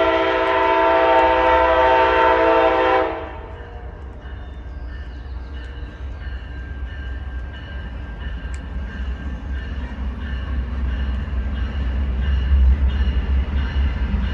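Amtrak passenger locomotive's air horn sounding one long blast, a chord of several notes lasting about three seconds, followed by the low rumble of the train growing louder as it approaches.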